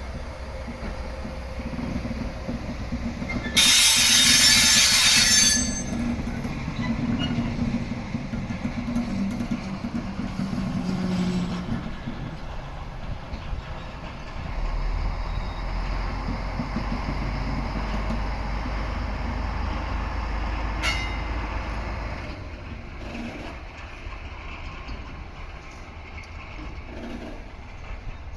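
A rail switcher moving an EF81 electric locomotive along the track, with steady rail and running noise throughout. A loud hissing burst comes about four seconds in and lasts about two seconds. A low steady rumble from the switcher's engine runs through the middle, with a sharp knock near the end of it.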